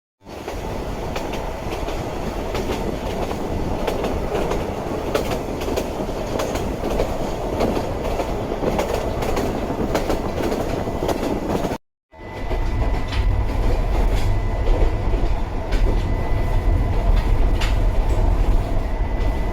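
Narrow-gauge electric train running on the rails: a steady running noise with scattered clicks of the wheels over rail joints. After a cut about twelve seconds in, the running noise continues with a stronger low hum underneath.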